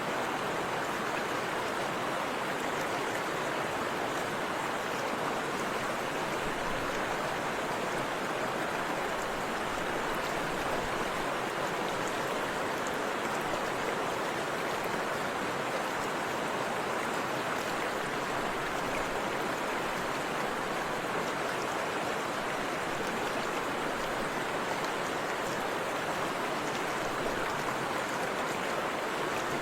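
Water of a forest river and waterfall rushing steadily, an even, unchanging hiss of flowing water.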